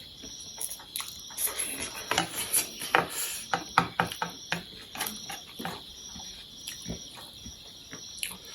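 Close-miked mukbang eating sounds: noodles being chewed and slurped, a run of irregular wet clicks and smacks.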